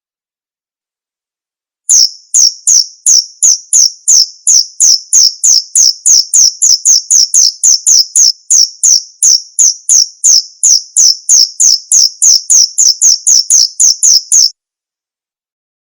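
Male cricket chirping: short high-pitched chirps repeated evenly, about three a second, starting about two seconds in and stopping shortly before the end.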